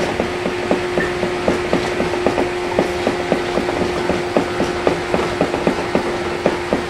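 A 115 series electric train running, heard from on board: a steady hum under a brisk, regular clicking about three to four times a second.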